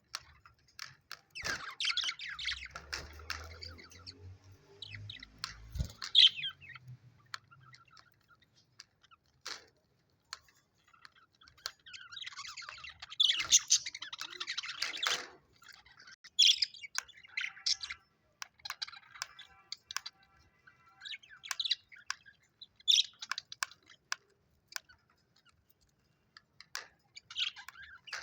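Budgerigars chirping and chattering in two dense, busy bursts, with short single chirps every second or two between and after them.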